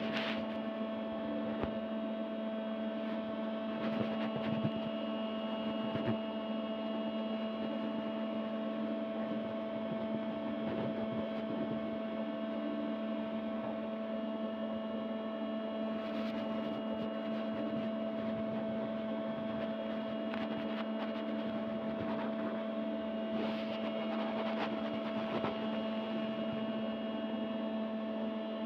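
A steady, unchanging hum made of several constant tones.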